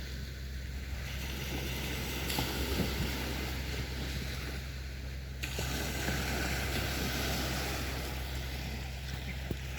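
Sea waves washing onto a beach, a steady rushing surf that swells twice, about two seconds in and again about halfway through.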